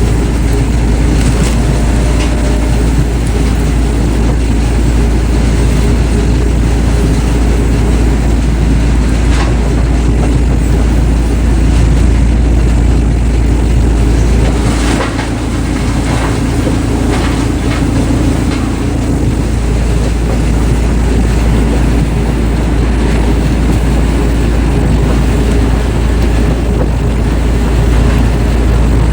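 A large machine running loudly with a deep, steady rumble, broken by a few sharp cracks.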